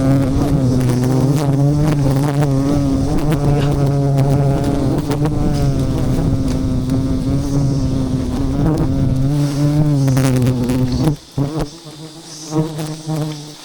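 Giant honey bees buzzing close by in a loud, steady, slightly wavering drone. It drops away suddenly about eleven seconds in, leaving a fainter buzz.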